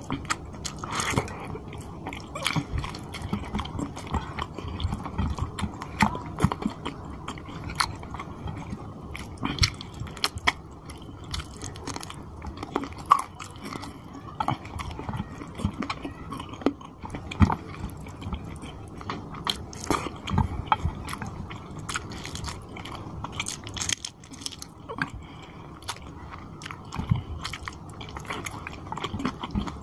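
Close-miked chewing and wet mouth smacks of a man eating rice and chicken curry by hand, with irregular sharp clicks and squishes as his fingers mix the gravy-soaked rice on the plate.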